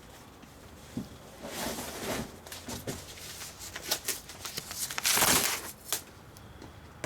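Paper and cardboard rustling and crumpling in several bursts, with scattered light knocks; the loudest, longest burst comes about five seconds in.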